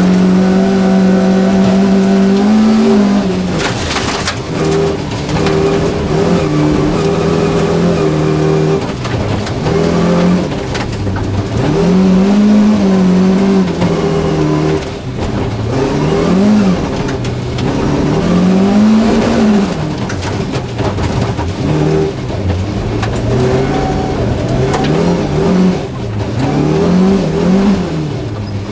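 Volvo 240 rally car's engine heard from inside the cabin, driven hard through the gears: it holds a steady pitch at first, then revs rise and fall again and again as the car is shifted and lifts and accelerates for corners. Gravel clicks and rattles under the car throughout.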